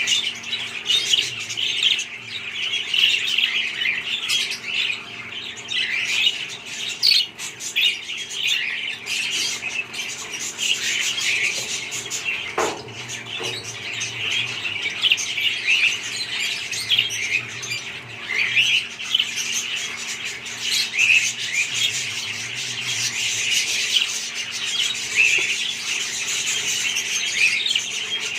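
A flock of budgerigars chattering and chirping without a break, many birds calling over one another, with an occasional louder squawk.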